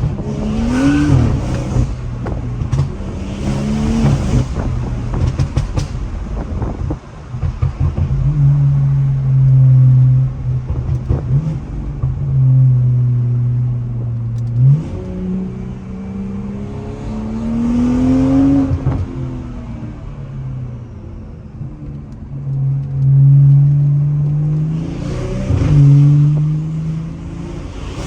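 BMW B58 3.0-litre turbocharged inline-six, tuned and running a catless, fully straight-piped exhaust, pulled hard through the gears and backing off again, its pitch rising and falling several times. Sharp crackles come through in the first few seconds, with longer steady stretches between the pulls.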